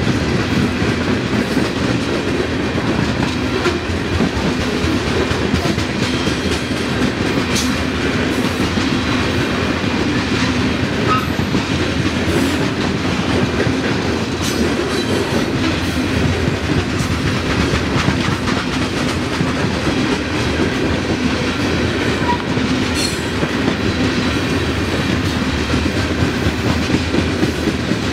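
Open-top coal cars of a long freight train rolling steadily past: a continuous rumble of steel wheels on rail with clickety-clack over the rail joints and scattered sharp clicks.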